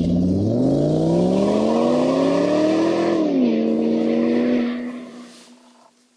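Motor-driven oil friction test machine running: its pitch climbs for about three seconds, drops sharply, holds steady, then winds down and stops about five seconds in.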